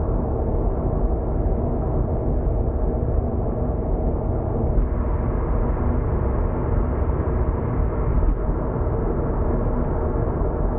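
Steady road and engine noise of a car cruising on an expressway, heard from inside the cabin: an even low rumble with a faint hum.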